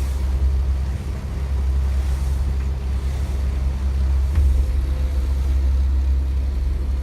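Strong wind buffeting the microphone: a steady, loud low rumble, with a brief heavier gust about four and a half seconds in.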